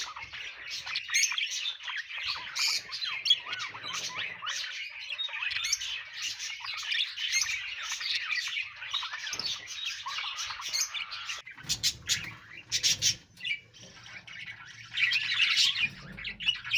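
A group of budgerigars chirping and chattering in a continuous, busy warble, with a few sharp clicks about twelve to thirteen seconds in.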